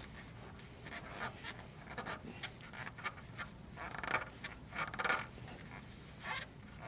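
Oil filter being threaded and spun on by hand, giving a series of short, irregular scraping and rubbing sounds of the metal canister turning in the hand.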